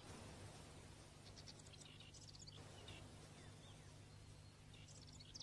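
Near silence with a faint low hum, and faint bird chirps in short runs: a few in the first half and again near the end.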